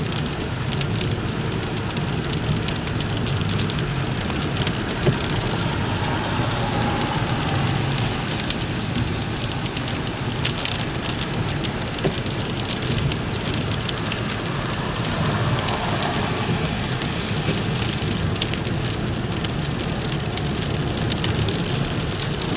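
Rain falling on a moving car, with many small drop ticks over a steady low road and engine hum. A couple of sharper ticks stand out, about five and twelve seconds in.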